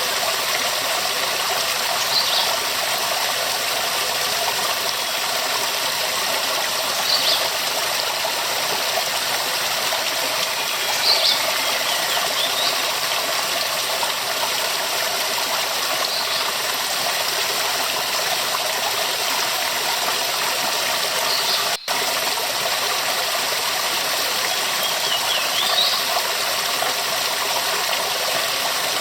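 Waterfall rushing steadily, with a few short high chirps every few seconds. The sound drops out for an instant about twenty-two seconds in.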